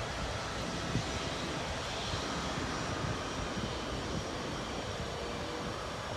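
Boeing C-17 Globemaster III's four turbofan jet engines running, heard as a steady, even rush of engine noise with a faint whine in it.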